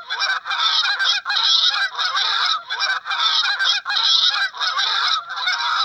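Geese honking in a continuous run of overlapping calls, with short breaks every half second or so.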